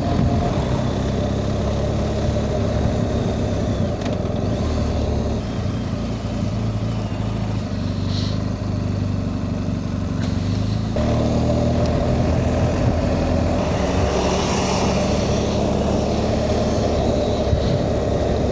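BMW R 1250 GS Rallye's boxer-twin engine running steadily while the motorcycle is ridden along, heard from the rider's position. The engine note shifts about eleven seconds in.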